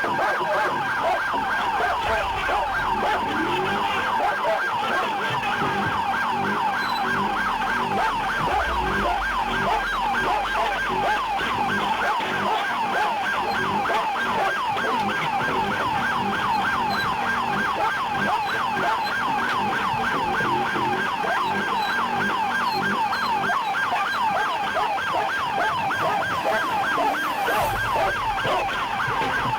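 Police car siren in a fast yelp, its pitch sweeping quickly up and down over and over without a break.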